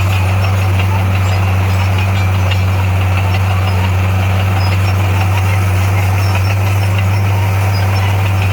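Heavy-equipment diesel engine running steadily at a low, even idle-like pace, with no change in speed.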